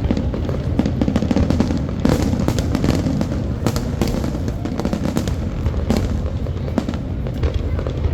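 Large fireworks display: many shell bursts and crackles follow one another with no pause, over a continuous low rumble of booms.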